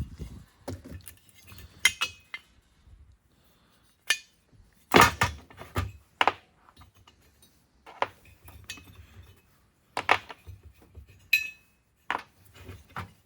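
Loose metal engine parts clinking and knocking as the cylinder head nuts, washers and head of a small two-stroke engine are taken off by hand. It is a string of separate clinks a second or two apart, the loudest about five seconds in, and one rings briefly near the end.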